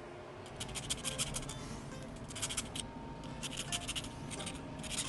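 Rapid scratching strokes on a small die-cast metal toy car body, coming in about four bursts, as hardened epoxy glue is worked off the body.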